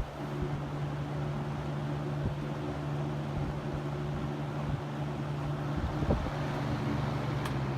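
A 1980s Monarch Aire 20-inch 3-speed box fan running steadily on high speed: an even motor hum under the rush of air from the blade. Its bearings are smooth, and it is quiet for how much air it moves. A brief knock comes about six seconds in.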